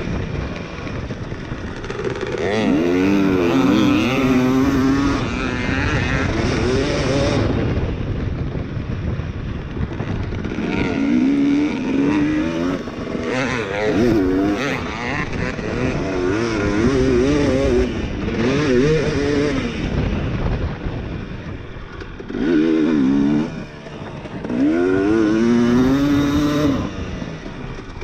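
Two-stroke dirt bike engine being ridden hard, its pitch climbing and falling again and again as the throttle is opened and rolled off.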